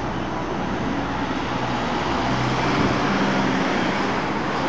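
Steady hum of a Toyo Rapid Railway 2000-series electric train standing at the platform, mixed with road traffic noise that grows slowly louder.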